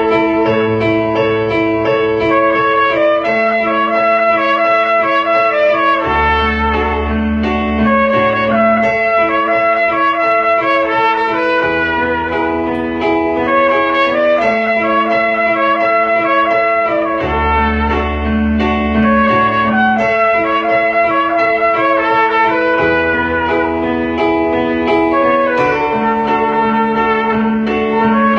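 Trumpet playing a slow melody in long held notes over a backing track, with a bass line that moves to a new note every few seconds.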